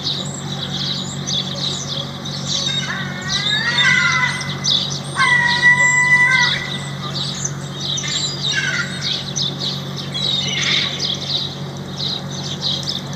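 Birds chirping continuously, with a louder squawking call of sliding notes about three seconds in and a held squawk a little after five seconds, over a steady low hum.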